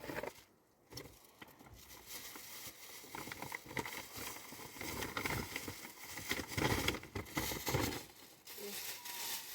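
Plastic sheeting crinkling and rustling as it is handled, busiest about halfway through.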